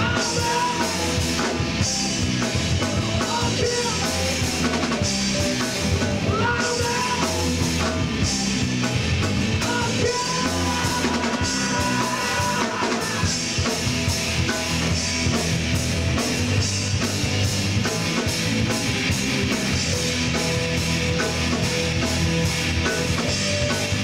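Live rock band playing an instrumental stretch of a song: drum kit with cymbals, bass and electric guitars, no vocals.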